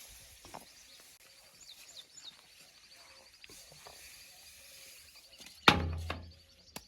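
Quiet outdoor background with a faint run of high chirps, then one loud knock about five and a half seconds in that dies away over half a second.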